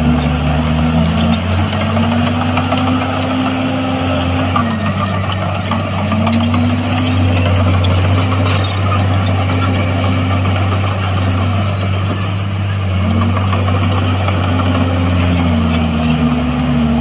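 Heavy diesel engine of earthmoving machinery working under load, its revs rising and falling repeatedly over a steady low drone and mechanical rattle.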